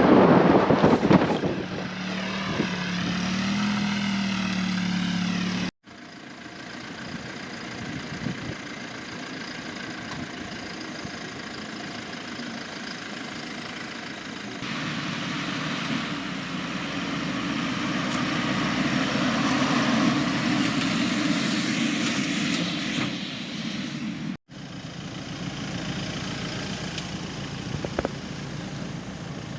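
Off-road vehicle engine running, its pitch wavering in the first few seconds and swelling for a while in the middle. The sound cuts out abruptly twice, about a fifth of the way in and again about four-fifths in.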